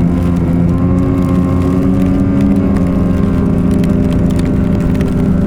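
Snowmobile engine running at a steady cruising speed, its pitch holding even.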